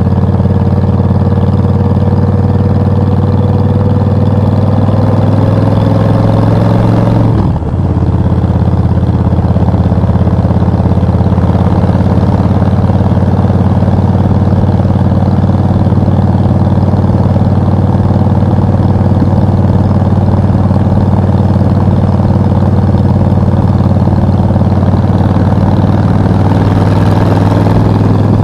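Suzuki VS1400 Intruder's 1400 cc V-twin engine running under way. The engine note climbs slightly for the first seven seconds, drops out briefly at about seven and a half seconds, as at a gear change, then runs on steadily.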